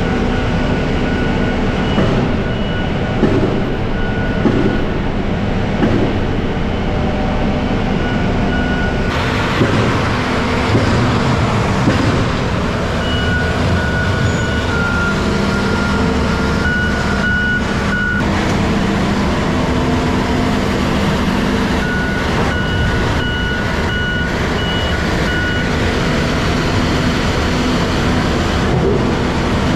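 A heavy truck's diesel engine starts up and runs steadily. A backup alarm beeps in several stretches over it.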